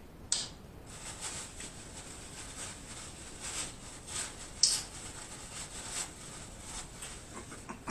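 Close-miked chewing and mouth noises: irregular soft wet smacks and clicks, with a sharper click just before the five-second mark.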